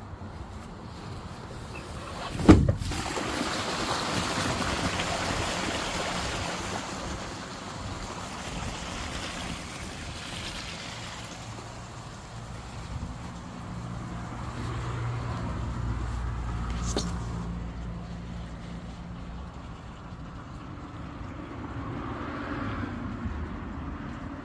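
A single sharp, loud bang about two and a half seconds in, followed by a stretch of broad noise. Later there is a low steady hum for several seconds, with a faint click near its end.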